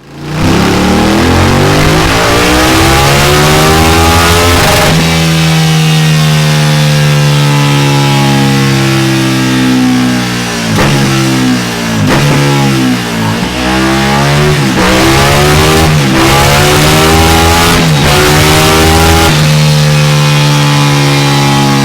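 KTM 1290 Super Duke's V-twin running loud through a Delkevic DL10 round carbon-fibre end can on a dyno. The engine note climbs over the first few seconds and holds high, then drops and rises again several times as the throttle is closed and reopened, before holding steady near the end.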